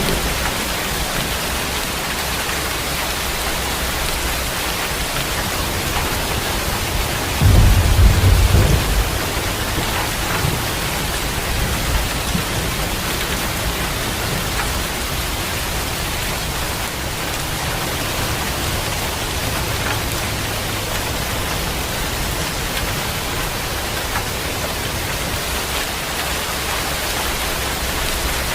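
Steady heavy rain hissing, with a short low rumble of thunder about eight seconds in.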